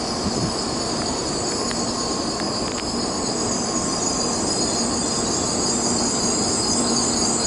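N700 series Shinkansen train rolling slowly into the platform, a steady rumble under a continuous high-pitched squeal as it brakes.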